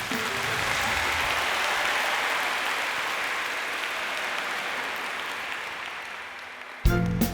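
Concert audience applauding, swelling and then slowly dying away; music comes in abruptly near the end.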